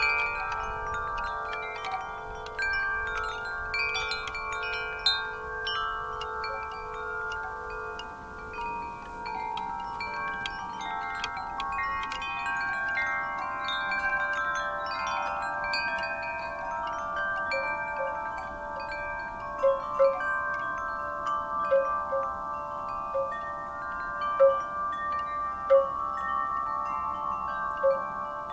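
Wind chimes ringing, many struck metal tones overlapping and hanging on. In the second half one low chime is struck again and again, every second or so, standing out above the rest.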